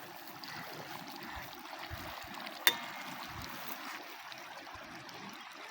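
Steady rush of flowing water, like a stream, with one sharp click about two and a half seconds in.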